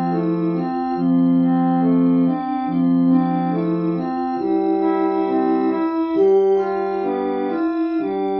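Electronic organ playing a slow melody over held chords. The notes are sustained evenly without dying away.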